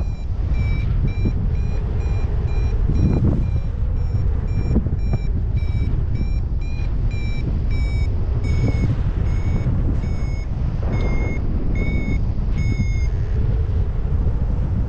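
Paragliding variometer beeping steadily at a high pitch, two to three beeps a second, as the glider climbs in lift. The beeps slow after about eight seconds and stop near the end as the climb fades. Heavy wind rumble on the microphone runs underneath.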